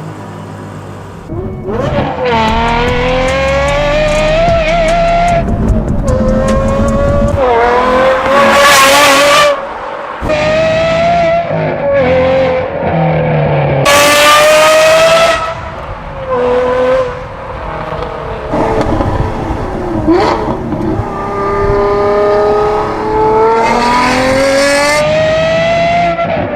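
Aston Martin Vantage V12's V12 engine, breathing through a Secret Weapon exhaust, accelerating hard. The engine note climbs in pitch again and again, dipping briefly at each gear change, with a couple of sharp, bright peaks at the top of the pulls.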